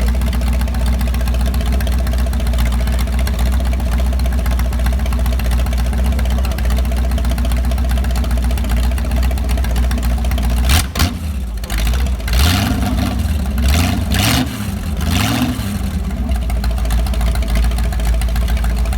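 A roughly 60-year-old GM Corvette V8 engine idling steadily, then revved in several quick blips about halfway through, the pitch rising and falling each time, before settling back to idle.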